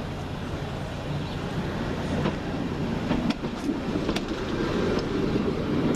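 Class 139 light railcar moving slowly through the station: a steady low engine hum with rumbling that grows from about two seconds in, and sharp clicks of wheels over the rail joints.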